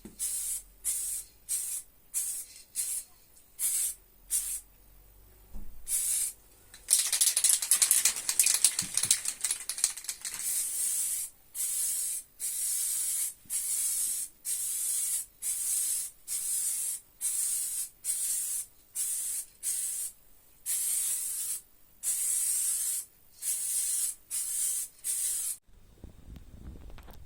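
Paint being sprayed in repeated short hissing bursts, with one longer continuous spray of about three seconds about a quarter of the way in; the spraying stops shortly before the end.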